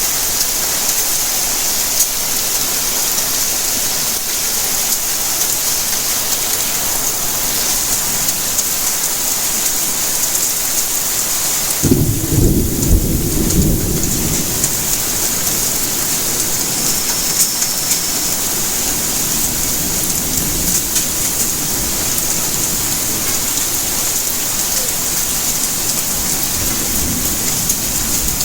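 Steady rainfall, with a clap of thunder about twelve seconds in: a sudden low rumble that is loudest for a couple of seconds and then fades slowly.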